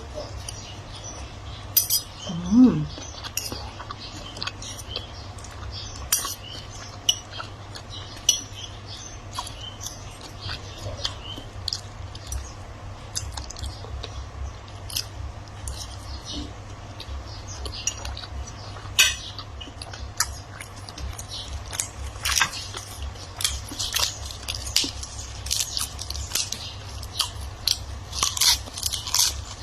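A person chewing and crunching food close to the microphone, with irregular clicks of a spoon or fork against a plate or bowl that come thicker near the end. A steady low hum runs underneath.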